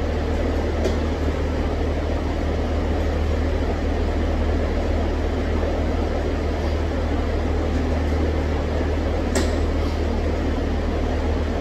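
Three-rotor rotary engine of a tuned Mazda RX-7 idling steadily as a low, even hum, with a light click about a second in and another near the end.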